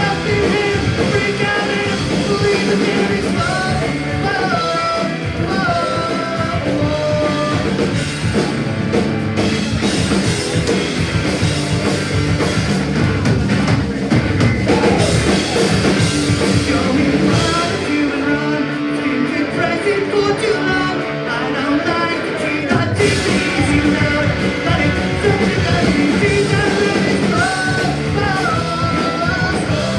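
Punk rock band playing live: distorted electric guitars, bass and drum kit with a lead vocal singing over them.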